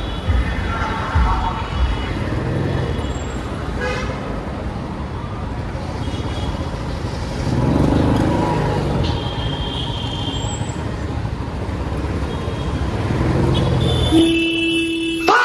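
Royal Enfield Classic 350's single-cylinder engine running steadily on the move in road traffic, with vehicle horns sounding briefly several times.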